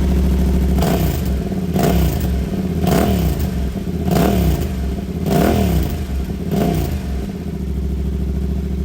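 Motorcycle engine revved in about six short blips, each rising and falling in pitch, roughly a second apart, then settling back to a steady idle near the end.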